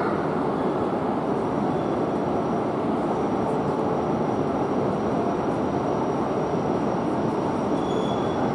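JR East E5 series shinkansen at the platform: a steady, even rumble and hum from the train, with a thin high whine coming in about a second in.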